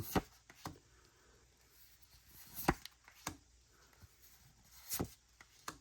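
Pokémon trading cards being handled while flipped through: a few short soft taps and flicks, spaced irregularly a second or two apart.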